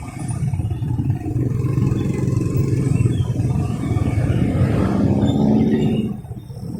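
Motorcycle engine running under way in traffic, pulling harder with a rising note and then easing off sharply about six seconds in.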